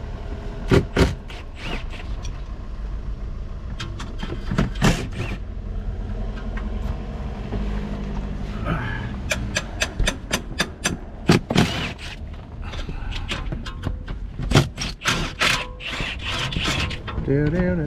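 Metal hand tools clanking and knocking as a car is worked on, with runs of quick clicks, over a steady low rumble.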